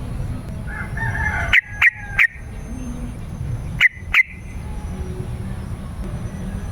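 Yellow-vented bulbul (trucukan) calling: a short warble, then sharp loud notes in quick clusters, three about one and a half seconds in and two more about four seconds in, over a steady low background rumble.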